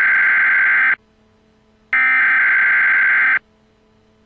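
Amber Alert emergency alert tone: a loud, harsh steady beep that sounds in long blasts of about a second and a half, with roughly a second's gap between them.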